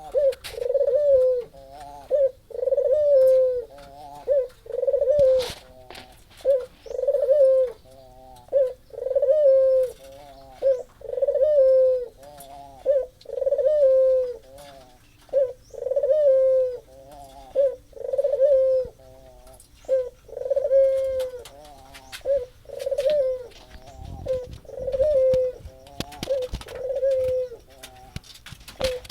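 Puter (Barbary dove) cooing over and over: a loud low coo about every one and a half seconds, with short rolling notes in between. This is a lure recording, meant to set a silent dove cooing.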